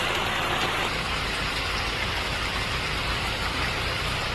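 Heavy monsoon rain pouring down steadily, a dense even hiss with a low rumble underneath.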